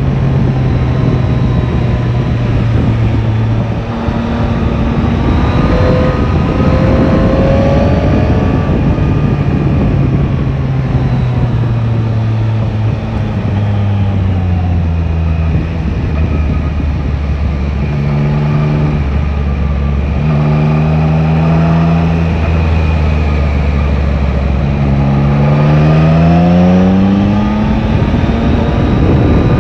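Yamaha Tracer 9 GT's three-cylinder engine pulling under way, its note rising and falling several times as the rider accelerates, eases off and changes gear. It climbs steeply near the end, over steady wind and road rush.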